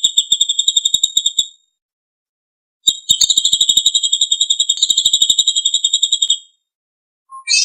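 A songbird's fast, even trill of high piercing notes, about a dozen a second. The trill stops about a second and a half in, then comes back about three seconds in and runs for some three seconds more.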